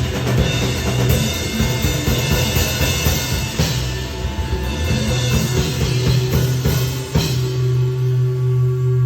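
Live indie rock band playing, with the drum kit (bass drum, snare, cymbals) driving under bass and guitar. About seven seconds in, a final hit lands and the band holds a sustained chord over a steady bass note.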